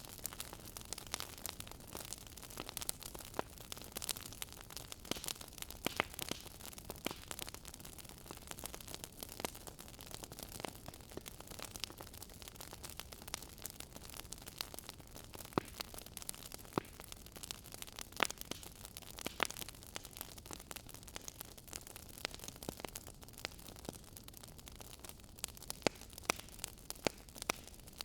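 Wood fire crackling in a fireplace: a steady low hiss with frequent sharp, irregular pops and snaps.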